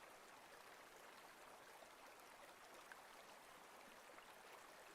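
Near silence: a faint, steady hiss of room tone between spoken meditation instructions.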